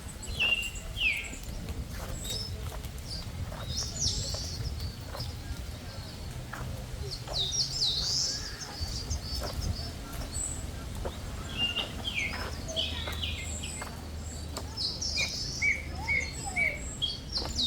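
Several birds chirping and calling, with short high chirps, quick sweeping notes and, near the end, a brief run of repeated notes. A low steady rumble runs underneath.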